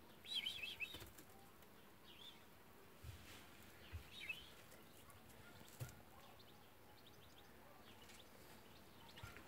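Mostly quiet, with a short bout of bird twittering about half a second in, a couple of fainter chirps later, and a few soft low thumps.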